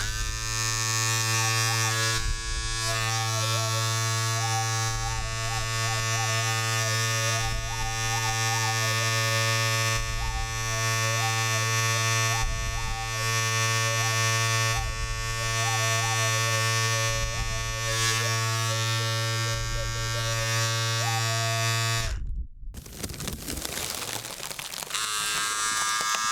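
Electric shaver buzzing steadily, with a wavering higher tone stepping up and down over the buzz and a low pulse about every two seconds. The buzz cuts off about 22 seconds in and starts again near the end.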